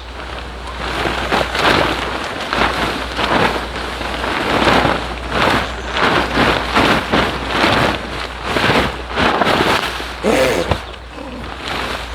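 Water pattering and splashing on tent fabric in quick, irregular surges.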